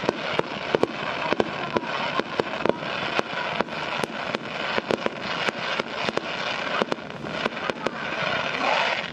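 Sea-surface fireworks (kaijō jibaku) going off: a dense, irregular string of sharp bangs, several a second, over continuous crackling.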